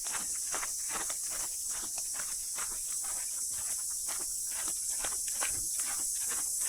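Footsteps on a bush walking track, a few steps a second, over a steady high-pitched chorus of cicadas.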